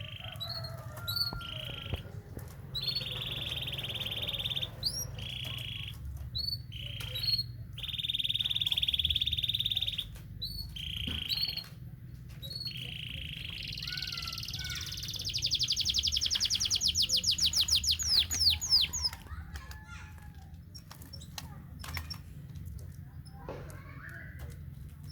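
Canary singing long rolling trills, each held a few seconds and broken by short pauses; from about 14 to 19 seconds in a louder, faster trill of rapidly repeated sweeping notes, then quieter scattered chirps.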